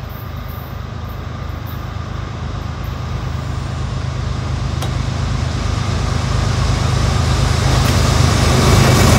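CSX diesel locomotive approaching at the head of a train: a steady low engine drone that grows louder throughout as it nears, with rail and wheel noise building near the end.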